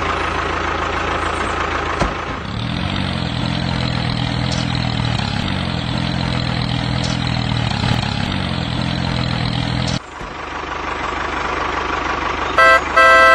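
An engine idling steadily with a low, slightly wavering note, which changes abruptly about ten seconds in. A loud pitched tone, like a horn, sounds briefly near the end.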